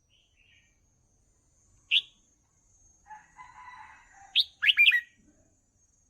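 Red-whiskered bulbul calling: a single sharp note about two seconds in, a soft scratchy chatter, then a quick burst of loud whistled notes near the end.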